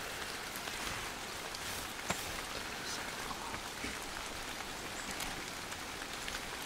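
Steady rain falling, an even patter with many scattered single drops and one louder drop about two seconds in.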